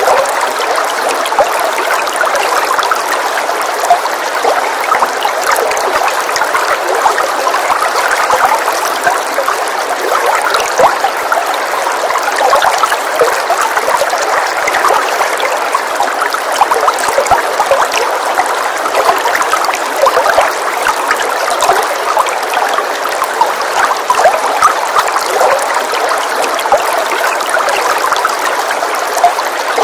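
Steady rain, an even rushing hiss with many small drop ticks through it.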